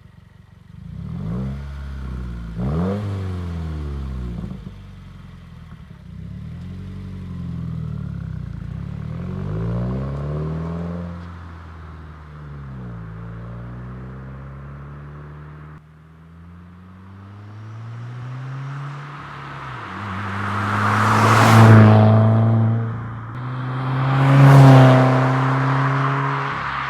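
Subaru WRX's turbocharged flat-four through a Tomei titanium single-exit exhaust, revved up and down repeatedly in quick rising and falling sweeps. Near the end it swells twice to its loudest, as the car accelerates hard past.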